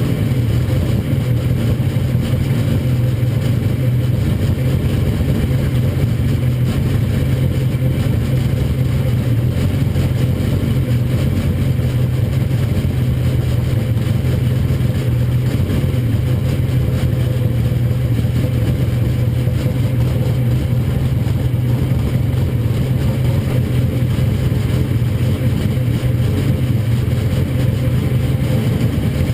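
Pro stock drag-racing truck's engine running steadily, a constant low rumble without revving.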